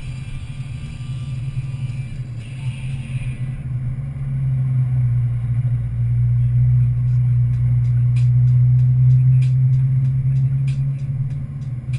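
A motor vehicle's engine runs with a steady low drone. It grows louder about four seconds in and eases off near the end, with faint sharp ticks through the second half.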